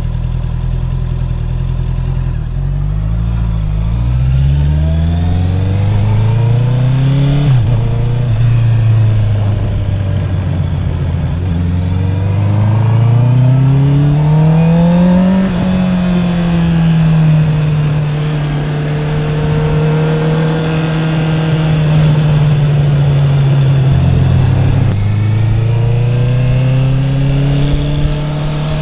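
Honda CB650R's inline-four engine through an Akrapovic exhaust. It pulls away and revs up, with a quick gear change about seven seconds in, climbs again, then eases off to a steady cruise. Near the end it changes gear again and accelerates.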